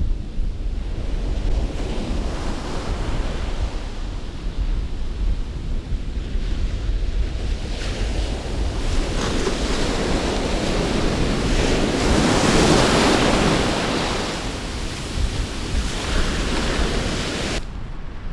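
Sea surf washing onto a sandy beach, with strong wind buffeting the microphone as a steady low rumble. The wash swells to its loudest about two-thirds of the way through.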